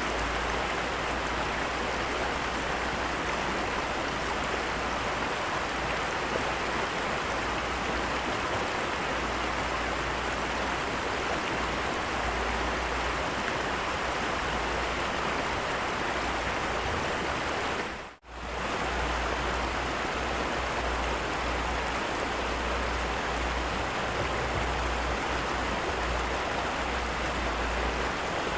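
Steady, even rush of water noise from heavy rain and running water at the fishing spot. It cuts out for a moment about two thirds of the way in, then resumes unchanged.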